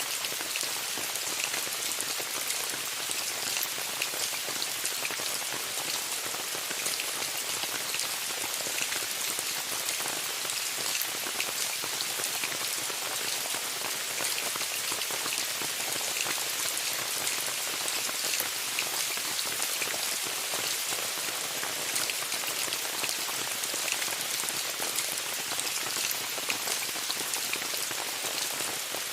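Steady rain falling on a tent, an even hiss dotted with many sharp ticks of individual drops.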